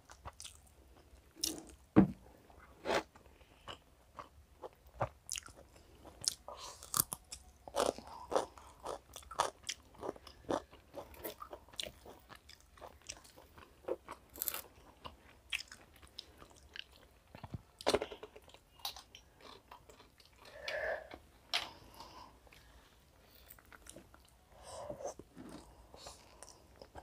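Close-up eating sounds of two people eating chicken biryani by hand: chewing, lip smacks and wet mouth clicks at an irregular pace, with a sharper knock about two seconds in.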